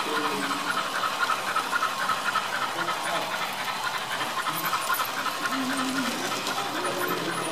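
Steady, rapid steam chuffing, several beats a second, from the sound decoder of a Märklin HO DB class 39 steam locomotive model running on the layout, with faint voices of people in the background.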